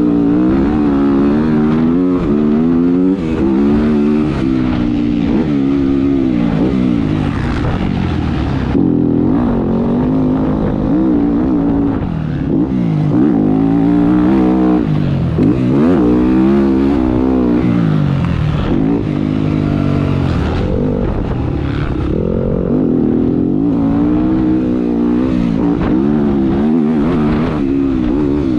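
Motocross bike engine ridden hard around a dirt track, heard from the rider's camera, its pitch climbing and dropping over and over with throttle and gear changes. There is a sharp fall in pitch and a brief dip at about eight seconds in, and again around twelve and sixteen seconds.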